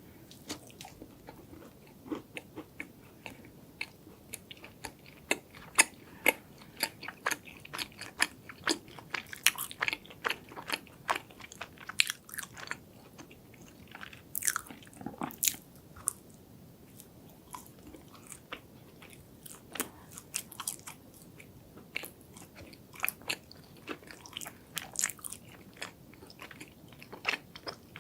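Close-miked eating of chocolate desserts: irregular crisp crunches and bites with wet chewing in between, the crunches coming in quick clusters.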